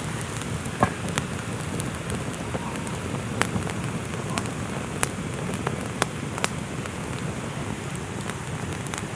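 Steady rain falling, with a few sharp clicks scattered through it, the strongest about a second in.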